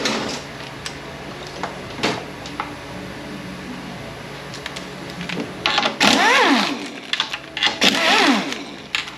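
Cordless power driver working transmission bolts during teardown: a few light tool clicks, then, from about two-thirds of the way in, three short whirring bursts whose motor whine rises and falls as each bolt spins out.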